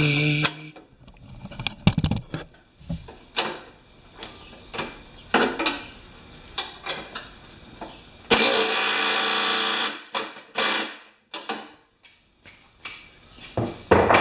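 Metal hand tools clinking and knocking in a string of sharp separate strikes while a bolt on a Tecumseh mower engine is worked on, with a power tool running steadily for about a second and a half a little past the middle.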